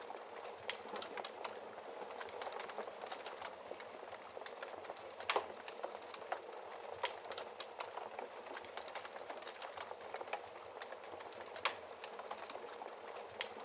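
Wood fire burning in a fireplace: a steady hiss with frequent small crackles and pops, and sharper cracks about five seconds in and again near twelve seconds.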